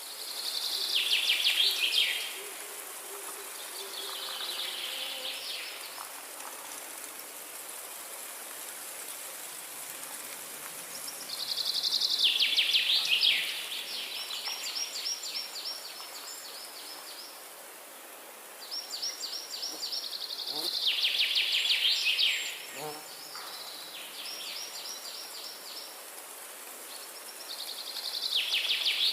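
Forest birdsong: one bird repeats a rapid phrase of quick notes falling in pitch, about two seconds long, every seven to nine seconds, with quieter rapid calls from other birds in between. A steady high hiss runs underneath.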